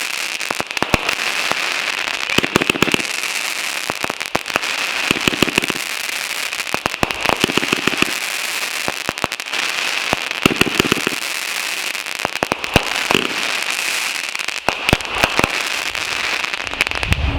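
Consumer fireworks going off: a dense, rapid string of sharp cracks and pops, with heavier bangs every two to three seconds.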